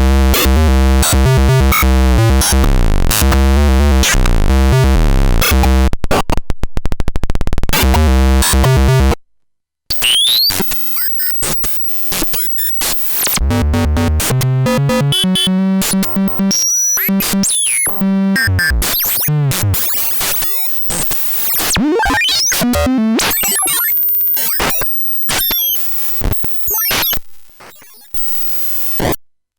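Paratek 'Космический шум' (Cosmic Noise) eurorack module, a Jupiter Storm–style bank of square-wave oscillators, making harsh synthesized noise. First it is a dense, rapidly stuttering buzz that turns into a fast chatter. After a brief cut about nine seconds in, it becomes sweeping, squealing glides and chirps that break off and restart.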